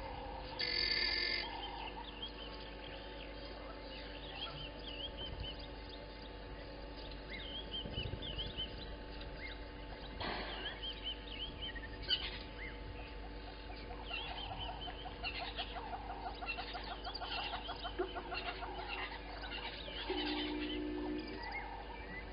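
Wild birds chirping and calling, many short overlapping calls, with a rapid run of evenly spaced pulses in the middle and a brief lower call near the end.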